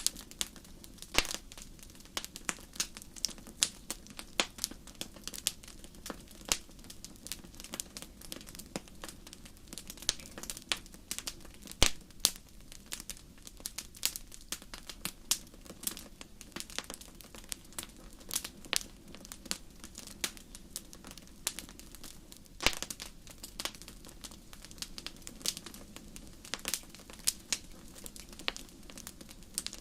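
Wood fire in a fireplace crackling: irregular sharp pops and snaps, several a second, over a steady low hiss of burning, with a few louder pops standing out.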